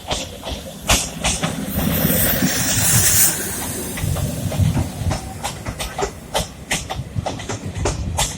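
CNG-fuelled DEMU train with a low engine rumble, a burst of air hiss about two seconds in that lasts about a second, then a run of sharp clicks and knocks.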